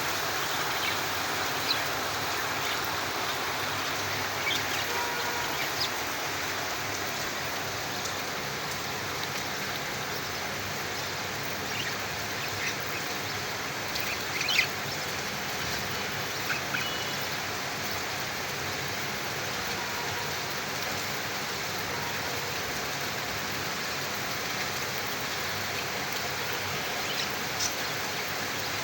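Budgies chirping briefly now and then over a steady hiss, the loudest chirp about halfway through.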